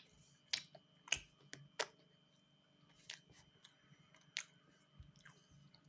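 A handful of faint, sharp clicks, irregularly spaced about a second apart.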